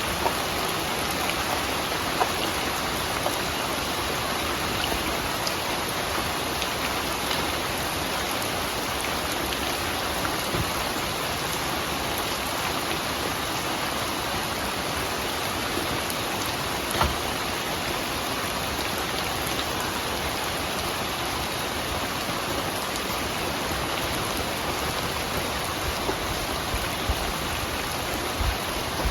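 Steady rain falling, an even hiss of water on surfaces, with a few louder single drops ticking now and then.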